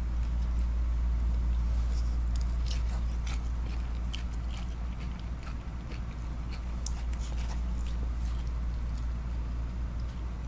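A person chewing and biting food close to the microphone, with many small wet crunches and clicks, over a steady low hum.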